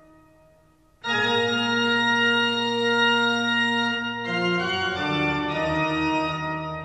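Organ music: a held chord fades away, then a new sustained chord sounds about a second in and moves to other chords twice before easing off near the end.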